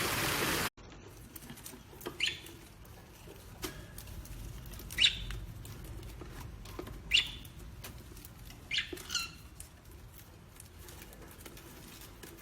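A parrot giving four short chirps a couple of seconds apart, each falling in pitch, with faint clicks between them. A steady hiss cuts off suddenly under a second in.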